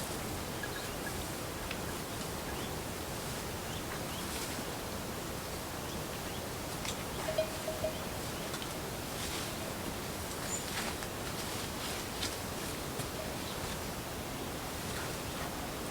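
Steady outdoor countryside ambience: an even background hiss with a few faint scattered clicks and a brief chirp about seven seconds in.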